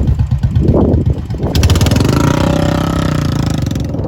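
Royal Enfield Bullet 350's single-cylinder engine running with a rapid, even exhaust beat. It revs up suddenly about a second and a half in and holds the higher revs.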